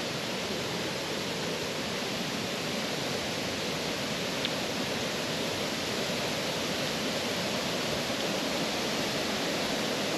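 Killen Falls waterfall, swollen after heavy rain: a steady rush of falling water that grows slowly louder.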